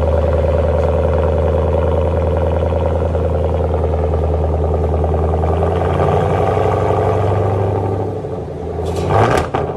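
2019 GMC Sierra's 5.3-litre V8 running at a steady idle through a 2 1/4-inch true dual straight-pipe exhaust with the catalytic converters kept. The idle note shifts about six seconds in, and a short loud burst comes near the end.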